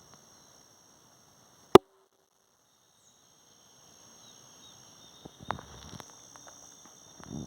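Steady high-pitched insect drone in the riverside quiet, broken by one sharp, loud click about two seconds in. Several light knocks and taps follow near the end.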